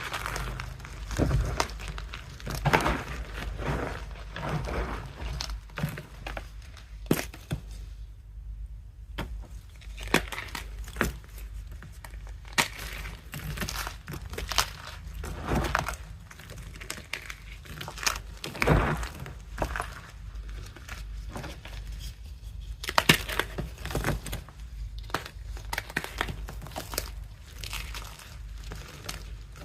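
Reformed blocks of gym chalk (magnesium carbonate) being crushed, giving a steady run of irregular crunches and crumbly crackles, with a short pause about eight seconds in.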